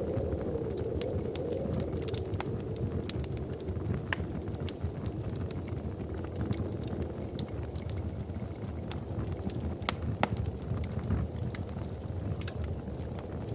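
Wood fire crackling in a fireplace: irregular sharp pops and snaps over a steady low rumble, with a couple of louder pops about ten seconds in.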